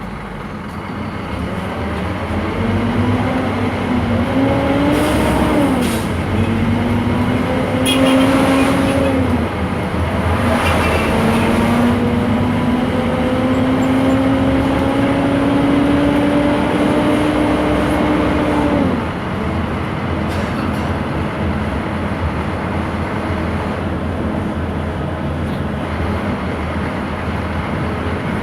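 Scania K230 city bus accelerating through the gears of its ZF automatic gearbox. A rising engine and driveline whine drops back at each upshift, twice in the first ten seconds, then climbs slowly. About nineteen seconds in the whine falls away and the bus runs on at a lower, steady level.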